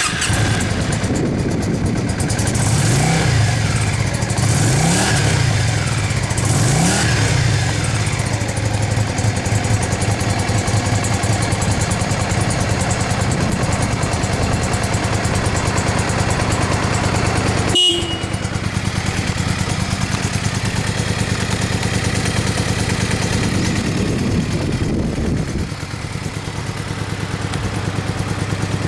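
Yamaha Drag Star 400 Classic's V-twin running through an aftermarket muffler: it catches at the start, is revved three times in quick succession in the first few seconds, then settles into a steady idle, with one lighter blip near the end.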